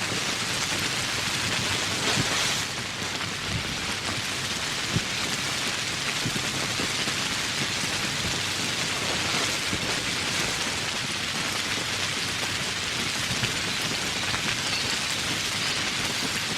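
Steady rain falling, with a few louder single drops standing out, the sharpest about five seconds in.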